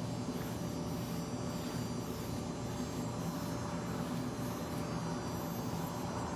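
A portable generator's engine running steadily with an even drone.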